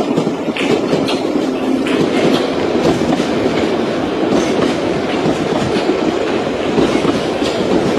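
London Underground Piccadilly line tube trains running through the station, a steady loud rumble with wheels clicking over rail joints.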